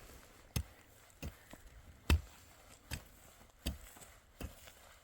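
Repeated blows of a hand tool, about six sharp strikes evenly spaced a little under a second apart, the one near the middle the loudest.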